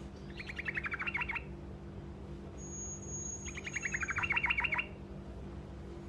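Yellow-vented bulbul (trucukan) singing two short rolling trills, each about a second of rapidly repeated notes, a couple of seconds apart, over a steady low hum.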